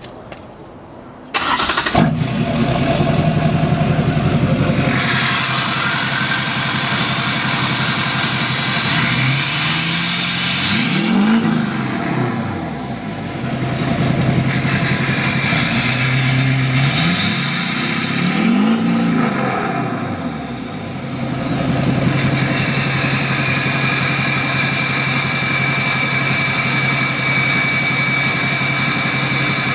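LLY Duramax 6.6-litre turbodiesel V8 with a straight-pipe exhaust, starting up sharply about a second in and settling to an idle. It is revved twice, each rev rising and falling with a high whistle gliding up and back down, then it idles again with a steady high whine.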